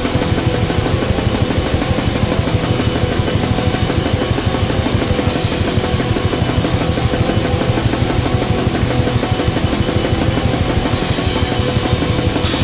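Raw black metal: fast, dense drumming under a wall of distorted guitar in a lo-fi, noisy mix, with cymbal washes about five and eleven seconds in.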